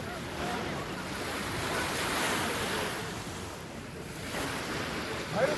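Lake waves washing onto a beach, swelling and ebbing, with wind buffeting the microphone and faint short chirping calls in the background.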